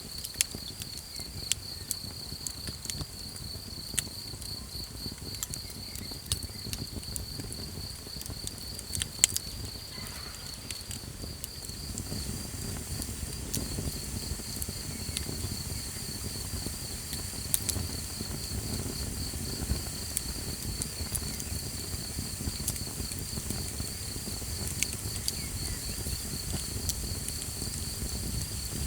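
Crickets chirping in a steady, rapid pulsing trill, over the scattered sharp pops and crackles of a small campfire. A low rumble underneath grows a little louder about halfway through.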